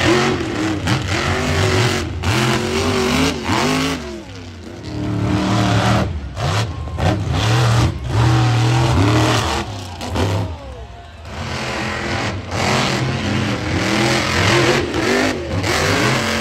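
Monster truck engine revving hard again and again, its pitch rising and falling with each push of the throttle, with a few brief dips where the throttle comes off.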